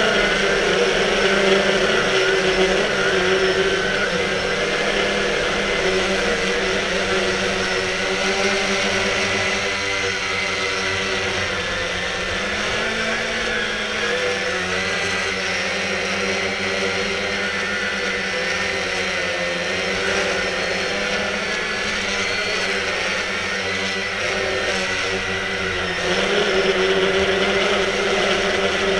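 Quanum Nova quadcopter's electric motors and propellers whirring, with several tones that drift up and down in pitch as the motor speeds change. It gets a little louder near the end.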